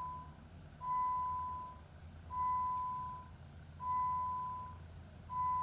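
An electronic chime beeping steadily about every one and a half seconds, each beep a single clear tone that starts sharply and fades over about a second.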